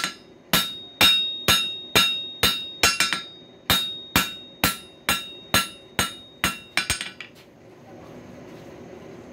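Hand hammer striking hot coil-spring steel on an anvil, about two ringing blows a second while drawing down the screwdriver's tang, stopping about seven seconds in.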